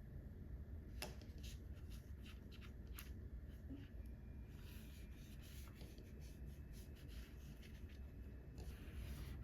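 Faint paper-crafting sounds of DIY sticker making: a few light clicks and taps in the first seconds, then a scratchy scraping on paper from about halfway, like a pen drawing or paper being cut.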